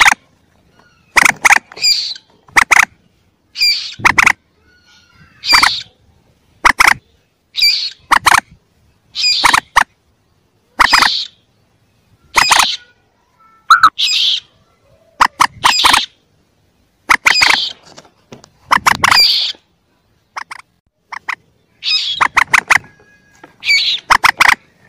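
Recorded calls of young common moorhens, used as a lure: short, sharp calls repeated about every second to second and a half, some doubled or tripled in quick succession.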